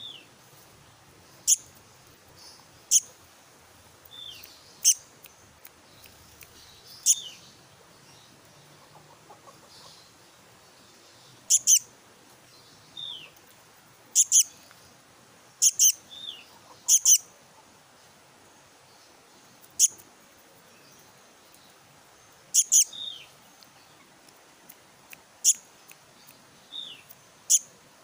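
Black-naped monarch (kehicap ranting) chick calling: short, sharp, high chirps at irregular intervals, several in quick pairs, some followed by a brief falling note.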